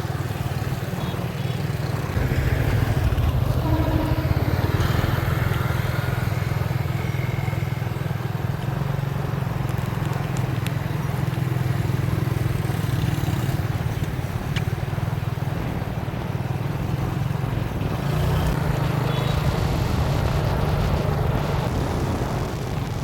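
Motorbike riding along a road, its engine running steadily under a continuous low rumble of road and wind noise.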